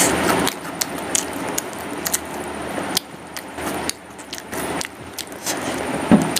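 Close-up eating sounds: chewing and mouth clicks while eating vada pav, with a louder noise about six seconds in.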